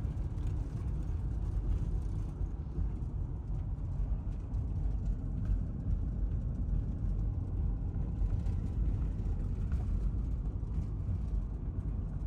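Steady low rumble of road noise inside a moving vehicle, even and unbroken.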